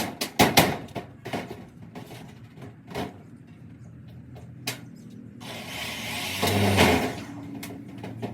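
Metalwork on a welded steel frame: a run of sharp metal knocks and clanks, two more single knocks, then a hissing crackle lasting about two seconds near the end, with a low hum under it.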